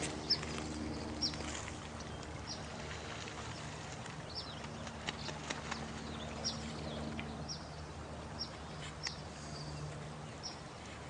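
Night nature ambience: short high chirps, each dropping in pitch, come about once a second from a small animal, with scattered sharp clicks over a steady low hum and soft background wash.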